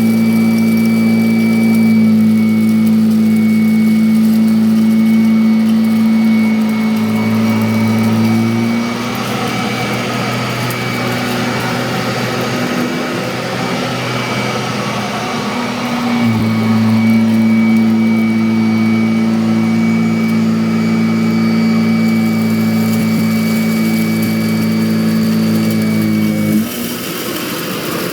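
Kirby Avalir 2 upright vacuum cleaner running with a steady motor hum and a high whine. For several seconds in the middle the hum turns rougher and noisier as it works over the floor, then steadies again; near the end the sound changes abruptly.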